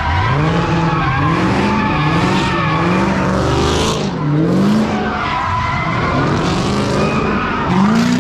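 A car doing skids at a street takeover: its engine revs climb and drop about once a second while the tyres screech.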